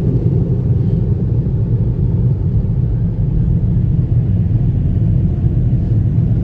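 Automatic car wash equipment running, heard from inside the car as a steady low rumble.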